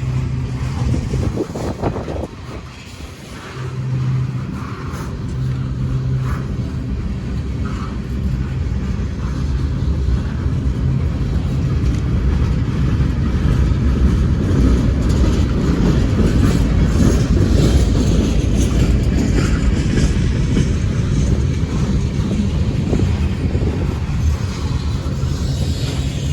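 Freight train rolling past with a steady low rumble that grows louder as the train picks up speed.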